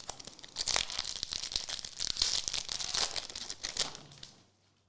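Trading card pack wrapper crinkling and being torn open, with dense crackles and sharp snaps, stopping about four seconds in.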